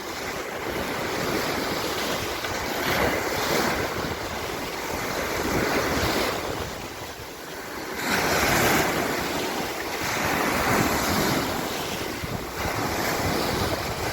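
Mediterranean surf breaking on the shore in swells that rise and fall every few seconds, with a short lull about halfway and a big wave soon after, while wind buffets the microphone.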